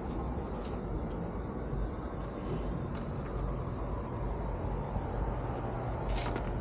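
A motor vehicle's engine running steadily with a low rumble and hum, with a few brief high-pitched ticks over it.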